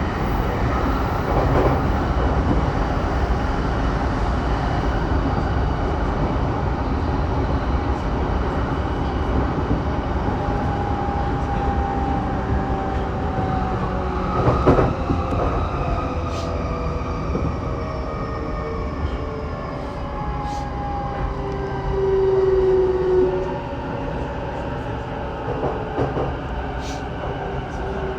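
Saikyō Line electric commuter train running between stations, with a steady rumble of wheels on rail and motor whines that slowly fall in pitch. There is a sharp knock about halfway through and a brief, louder whine about 22 seconds in.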